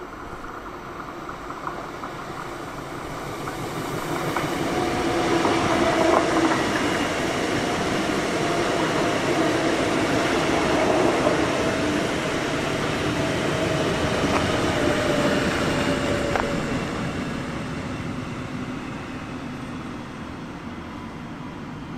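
An electric S-Bahn train passes close by, growing louder and then fading away. A steady motor hum falls slowly in pitch, and wheels click a few times over rail joints and points.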